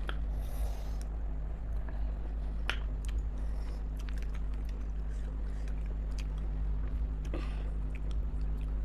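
A person chewing and biting into spicy chicken momos in gravy, with scattered small clicks from the mouth, over a steady low background hum.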